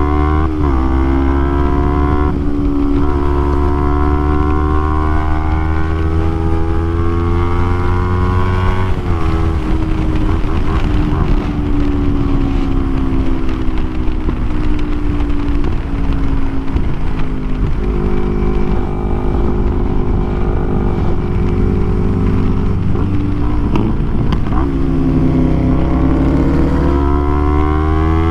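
Kawasaki Ninja 250R parallel-twin engine through a full Graves race exhaust, being ridden hard: the engine note climbs and drops several times as the bike accelerates and shifts gears, then holds steady for a stretch.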